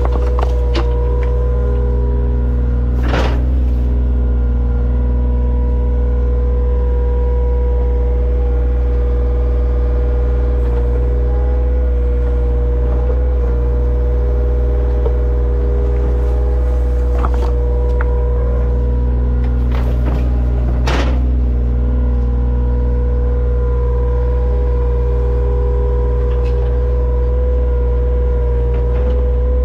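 A large engine running steadily at a constant speed, with a few sharp clanks about 3, 17 and 21 seconds in.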